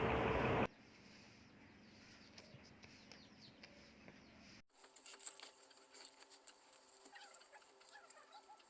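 Faint chirping bird calls over a low steady hum, starting suddenly about halfway through; before that, a brief hiss that cuts off, then near-quiet.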